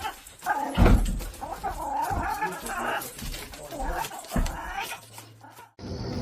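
A pet animal vocalizing in long, wavering, pitched calls, with several low thumps, cutting off suddenly near the end.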